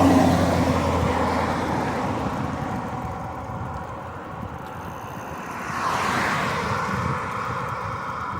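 Road traffic: a car passing close by at the start and fading away, then another approaching and going past about six seconds in.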